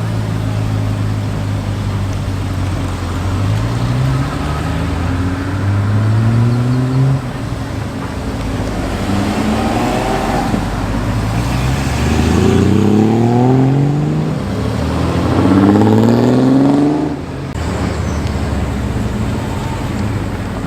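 Cars accelerating, their engines rising in pitch through the gears one after another, over a steady low engine hum. The loudest pass is near the end and cuts off abruptly.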